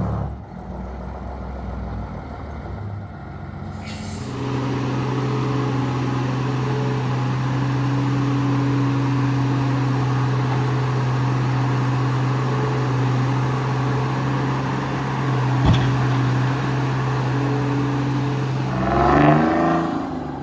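The diesel engine of heavy logging equipment runs at a steady speed with an even hum, after a rougher start. There is a single sharp knock about three-quarters of the way through. Near the end the engine pitch swings up and down briefly.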